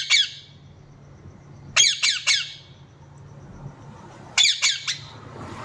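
Pet parrot squawking in short, harsh calls: one right at the start, then two clusters of about three quick squawks, around two seconds in and again near four and a half seconds.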